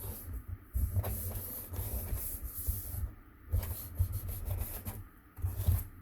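Hands pressing, rubbing and bending glued cardstock onto a cardboard cracker box: irregular paper rubbing and rustling with dull handling bumps.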